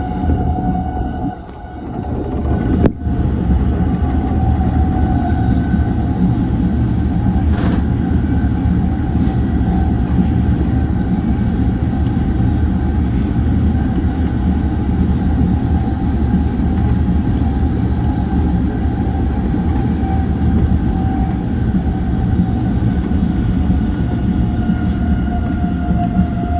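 E235 series electric train running along the track: a steady rumble of wheels on rail with a faint constant hum of a few tones. There is a single sharp click about three seconds in.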